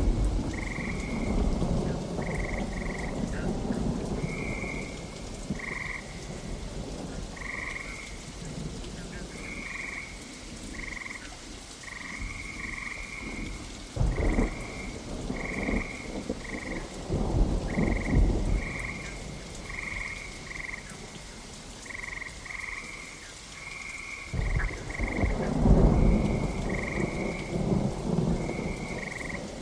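Rain falling steadily during a thunderstorm, with thunder rumbling several times: at the start, about halfway through, and a louder roll near the end. Frogs croak throughout in short, high calls repeated about once or twice a second.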